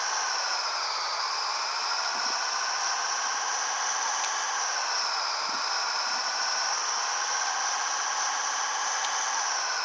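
Scania 113H 360 truck on the move: a steady high-pitched whine that drifts slowly up and down in pitch, with little low engine rumble.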